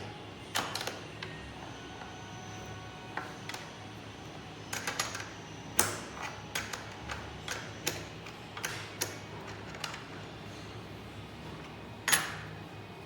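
Irregular clicks, knocks and clinks of small hard parts being handled, a few with a short metallic ring, the loudest about twelve seconds in.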